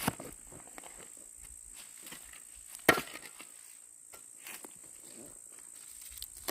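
A few sharp knocks or chops, the loudest about three seconds in, over a steady high-pitched insect buzz.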